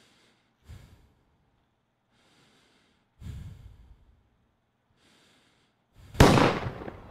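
Slow breathing: faint airy breaths about two and a half seconds apart, with a couple of dull low thuds in between. About six seconds in comes a loud, sudden crash that fades away slowly.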